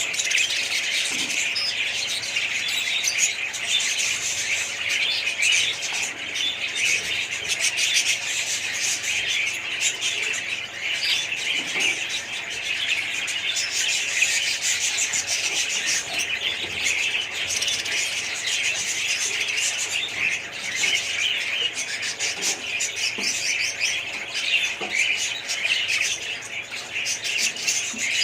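A flock of small parrots chirping all at once: a dense, unbroken chatter of many overlapping high chirps.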